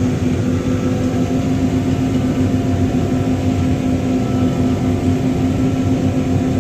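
Heavy farm machinery's diesel engine running steadily under load in the field, a constant drone with a steady hum and no change in speed.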